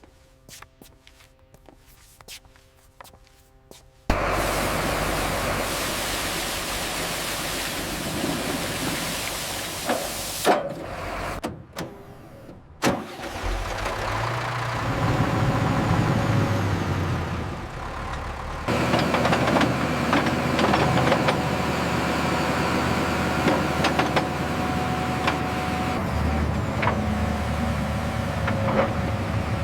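CAT D9 bulldozer's diesel engine coming in suddenly about four seconds in, after a few faint ticks, and running loudly with a dense, noisy sound. It drops out briefly around the middle, then builds and runs steadily again.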